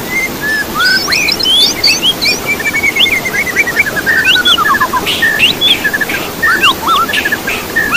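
Songbirds singing varied whistled songs, with quick slurred notes and a falling run of rapid notes about halfway through, over a steady rush of trickling water. It is a mixed birdsong recording used to coax caged songbirds into song.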